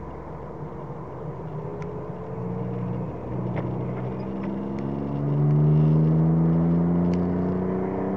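Alpine A310's V6 engine heard from inside the cabin, running steadily at first and then pulling up through the revs from about halfway through, rising in pitch and growing louder, over road noise.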